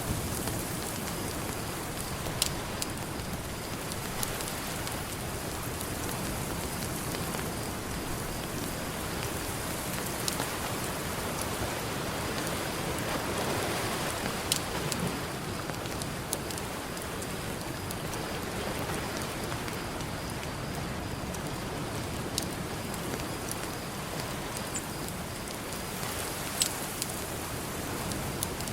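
Campfire crackling, with sharp pops every few seconds, over the steady wash of ocean surf; a wave swells and breaks about halfway through.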